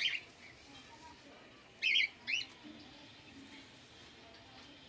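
Small finches chirping: a short call right at the start, then two quick chirps about two seconds in, with quiet between.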